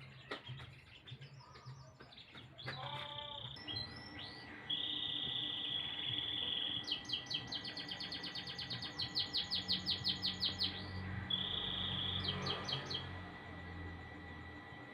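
Domestic canary singing: a long held whistled note, then a fast rolling trill, another short held note and a few chirps before it falls silent.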